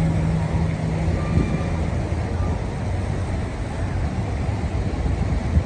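City street traffic: vehicles running past with a steady low rumble, and an engine hum that drops away a little over a second in.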